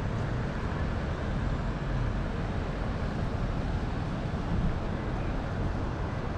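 Steady outdoor city background noise: an even low rumble with no distinct events.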